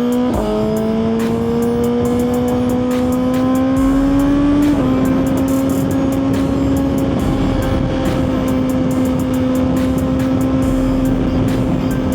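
Suzuki GSX-R1000's inline-four engine accelerating through the gears. The pitch climbs, drops at a quick upshift just after the start, climbs again, drops at a second upshift about five seconds in, then holds steady at cruising speed under a rush of wind noise.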